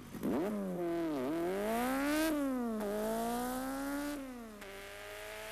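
A vehicle engine accelerating through the gears: its pitch climbs, falls back sharply twice at the shifts, and climbs again.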